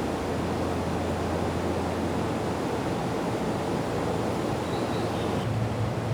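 Steady running noise of a JR local train in motion: an even rush with a low hum underneath.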